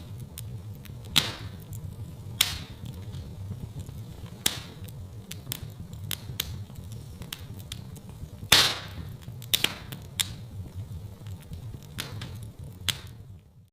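Wood fire crackling in a fireplace: a steady low rumble of burning with sharp pops and snaps every second or so, the loudest about eight and a half seconds in. The sound drops out briefly near the end.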